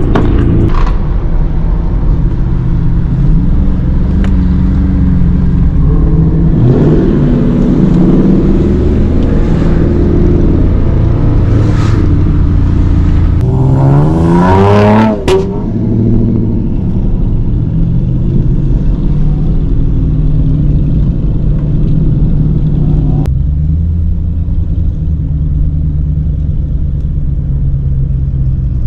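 V8 muscle car engine rumbling and being revved in short blips, with one long rev a little past halfway that climbs in pitch and drops off sharply, then settling into a steady deep idle.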